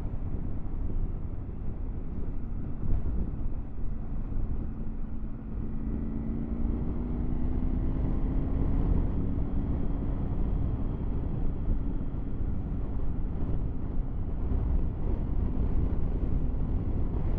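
Triumph Tiger 900 GT Pro's three-cylinder engine running at road speed under a heavy low rumble of wind and road noise. Its note rises a little about six seconds in as the bike pulls harder, then holds steady.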